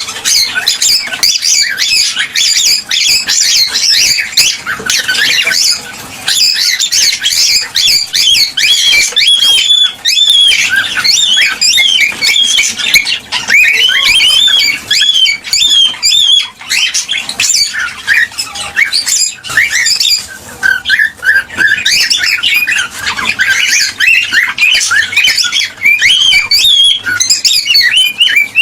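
Cockatiels chirping and whistling continuously, many short rapid calls overlapping, as in a flock or aviary of several birds calling together.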